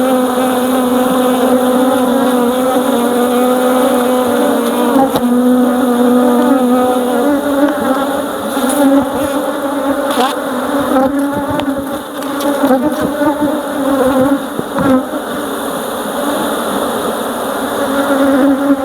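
A mass of honeybees buzzing loudly around an opened hive, a dense steady hum that grows more ragged after about seven seconds, with a few light knocks.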